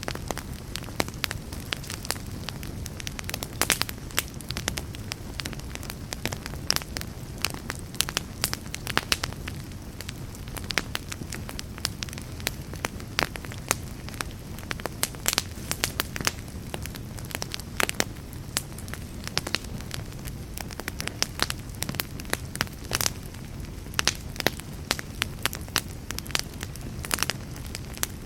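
Wood fire burning in a fireplace: logs crackling with frequent irregular pops over a steady low rumble of the flames.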